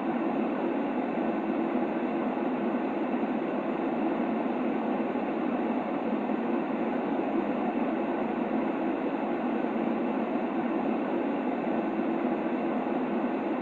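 Steady white noise for a baby's sleep: an unchanging, muffled hiss, heaviest in the low middle range, with no sharp highs.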